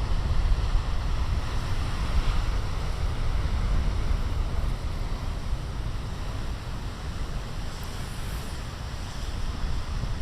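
Big ocean waves breaking and washing ashore: a steady roar of surf with a deep wind rumble on the microphone. It swells in the first few seconds, eases a little past the middle and builds again near the end.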